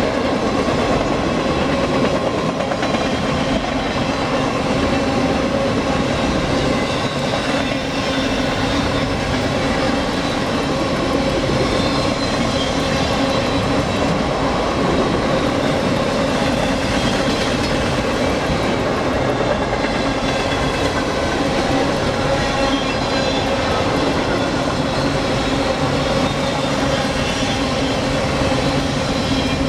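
Freight train rolling along the track: continuous, steady noise of steel wheels on the rails, with faint steady tones running through it.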